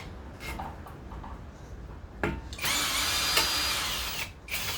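Cordless drill-driver spinning up, running steadily for about a second and a half and winding down, backing out screws on a string trimmer's housing. A sharp knock comes just before it starts, with a few light handling knocks earlier.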